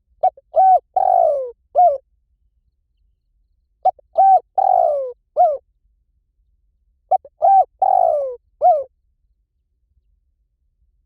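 Spotted dove cooing: three like phrases a few seconds apart. Each is a short note, a longer falling coo and a short closing note.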